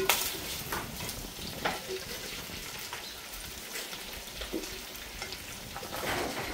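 Chicken frying in a caldero, an iron cooking pot: a steady sizzle with scattered sharp clicks and knocks, the loudest right at the start.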